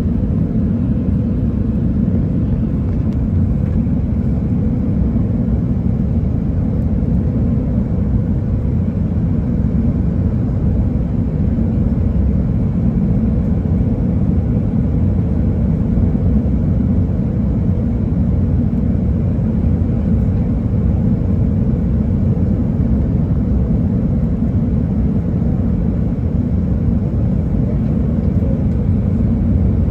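Steady cabin rumble of an Airbus A319 airliner, engine and airflow noise, with a faint steady tone running through it.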